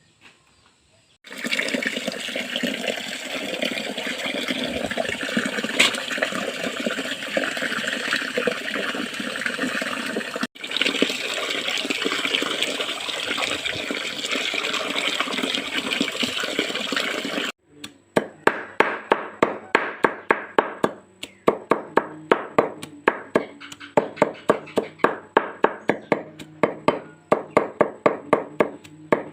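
Bead-making machinery running: first a loud steady rushing noise, then, after a sudden change, a fast clacking at about three or four clacks a second.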